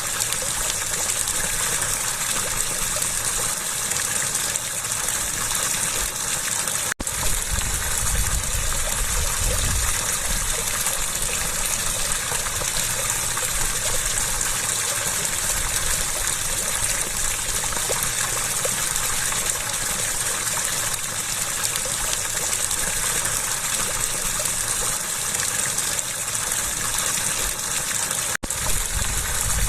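Water rushing and gushing steadily, like a small waterfall or fast stream, with two brief breaks in the sound, about seven seconds in and near the end.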